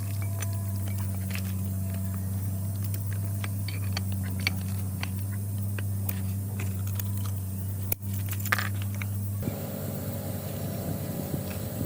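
A steady machine hum with scattered light, sharp metallic clicks. About nine and a half seconds in, the hum cuts off and a rougher, noisier running sound takes over.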